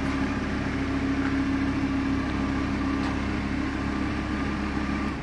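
Lamborghini Huracán's V10 engine idling steadily with an even, unchanging hum, cutting off suddenly at the very end.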